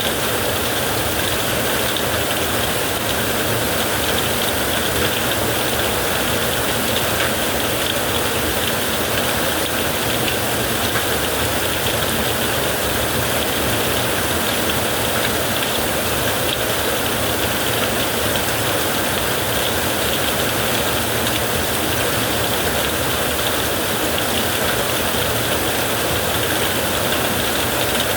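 Heavy rain falling steadily on a tent, an even, unbroken noise.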